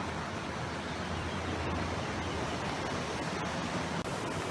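Steady rushing of stream water over small cascades and rocks.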